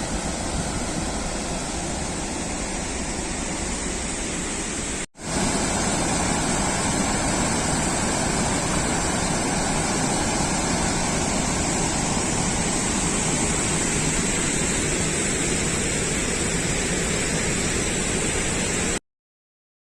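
Heavy water rushing steadily from a dam spillway in monsoon flow. A brief gap about five seconds in, after which it is a little louder, and it cuts off abruptly near the end.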